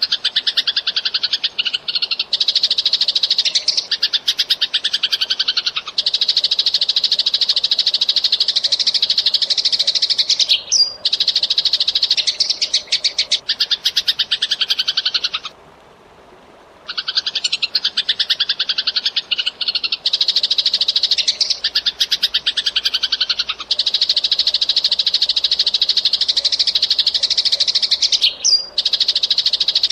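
Eurasian tree sparrow chattering: a loud, dense, very fast run of chirps that keeps going without a break, stopping for about a second and a half halfway through before starting again.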